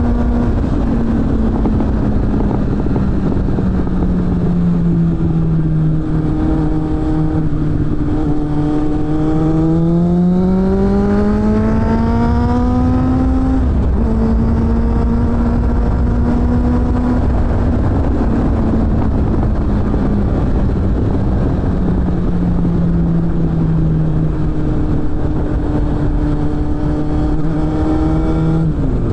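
Suzuki GSF600 Bandit's inline-four engine through a BOS aftermarket exhaust, heard on board while riding. The engine note sinks slowly as the throttle is eased off, climbs steeply for about four seconds under acceleration, drops at a gear change, then sinks slowly again over a steady rush of wind.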